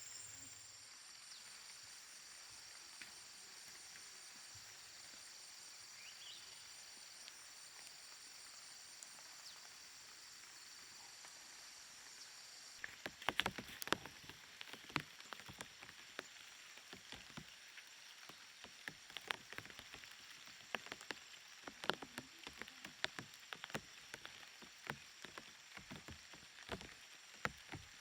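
Steady high-pitched chorus of insects, pulsing in the first half. From about halfway in, irregular sharp clicks and taps join it.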